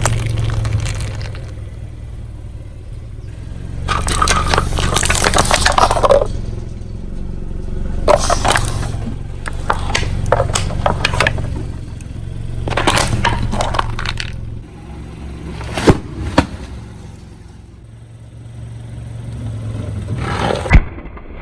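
Car tyre rolling over and crushing crunchy objects: about five bouts of crackling and breaking over the low hum of the car's engine. There are sharp loud cracks, two about sixteen seconds in and one near the end.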